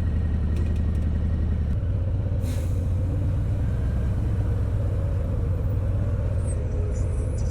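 Harley-Davidson Heritage V-twin engine running with a steady low pulse, its note changing about two seconds in.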